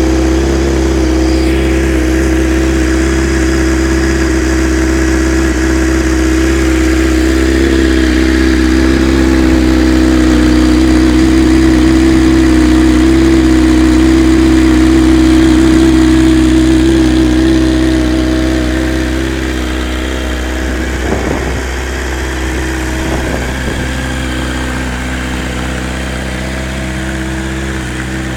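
Honda CBR900RR Fireblade's inline-four engine idling steadily through an original Honda VFR exhaust, easing a little quieter past the middle.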